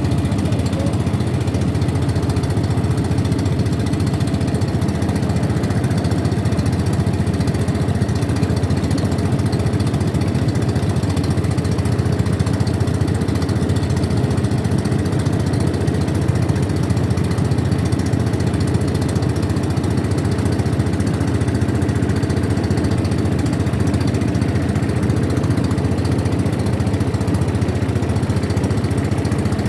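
Motorboat engine running steadily at an even pitch, heard from aboard the racing boat.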